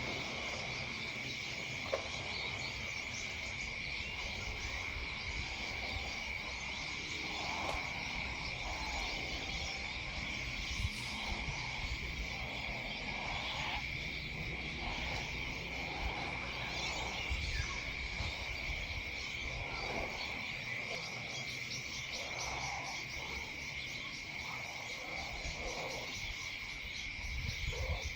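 Evening outdoor chorus: a steady high insect trill throughout, with scattered short lower calls, likely frogs croaking, and a faint low rumble.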